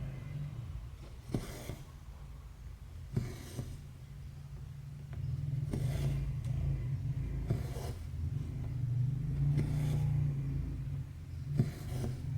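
Needle and thread pulled through cross-stitch fabric, a short rasp every second or two as each stitch is drawn tight. A low rumble underneath grows louder in the middle and fades near the end.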